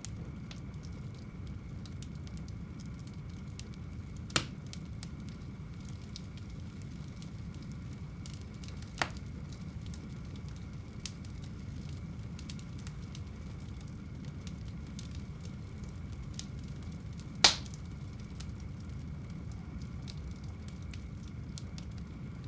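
Wood fire burning in a fireplace: a steady low rumble with faint small crackles, and three sharp loud pops of the burning wood, about 4, 9 and 17 seconds in, the last the loudest.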